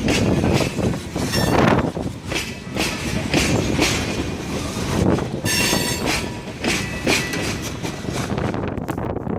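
Train cars passing close by, rumbling and clacking over the rail joints, with a brief wheel squeal about halfway through.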